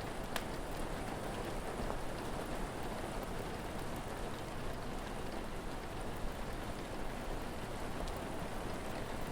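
Steady rain falling on a surface, an even hiss with a few sharp clicks scattered through it.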